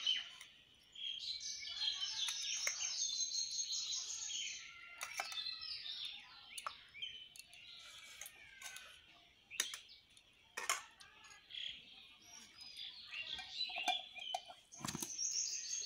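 Small birds chirping and twittering, with fast trilled runs of high notes about a second in and again near the end. A few short, sharp knocks sound in between.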